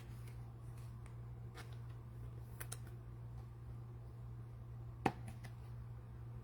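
Faint, scattered light clicks and rustles of trading cards and cello pack wrapping being handled, with one sharper click about five seconds in, over a steady low hum.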